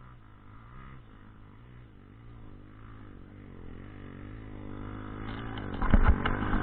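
Off-road motorcycle engine revving up and down in surges, getting steadily louder as it comes closer. Sharp knocks and clatter come in during the last second or so.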